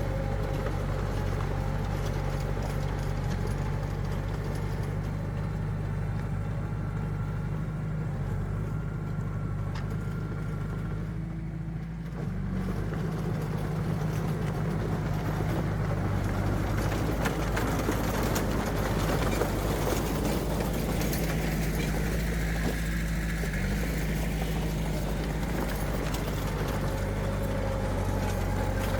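Heavy earthmoving machinery's diesel engines running steadily, with a brief dip in level about twelve seconds in.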